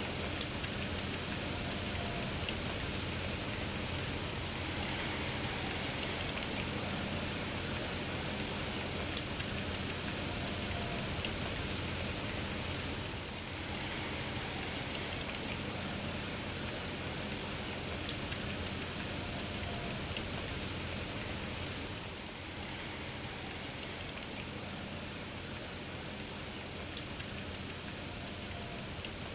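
Steady rainfall, an even wash of falling drops. A single sharp tick stands out four times, about nine seconds apart.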